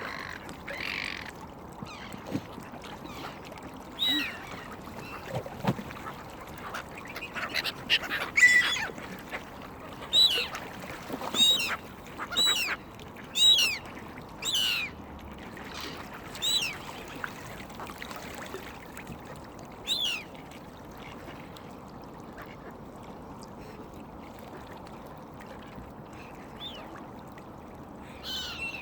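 Waterbirds calling at the feeding spot: about a dozen short, harsh calls come one after another from about four seconds in to about twenty seconds in. After that there is only a steady background hiss.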